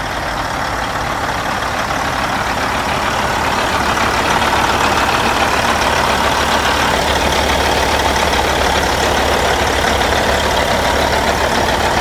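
Caterpillar C15 inline-six diesel engine of a 2010 Peterbilt 388 highway tractor idling steadily, growing a little louder over the first few seconds.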